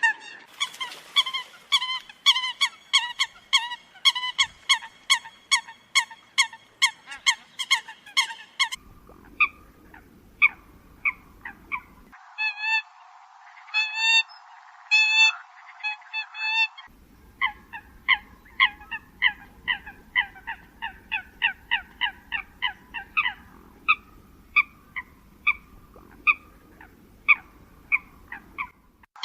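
Eurasian coots calling: a long run of short, sharp repeated calls, two to three a second, pieced together from several recordings that cut in and out abruptly. It is a call track played as a lure for the birds.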